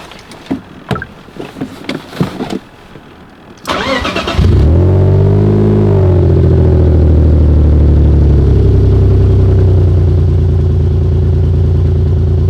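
A few clicks and knocks, then the BMW E46's straight-six is cranked on the starter and catches after about half a second. It flares up, drops back and settles into a steady idle that sounds like a misfire to the owner; the scanner has logged a cylinder 6 misfire.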